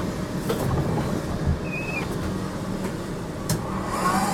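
GTL8 tram running along the track, heard from inside: a steady rumble with a few sharp knocks from the wheels and a brief high squeal a little under two seconds in.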